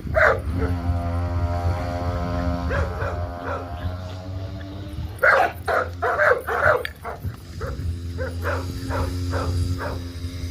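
Puppies yipping and barking in short bursts, busiest about five to seven seconds in.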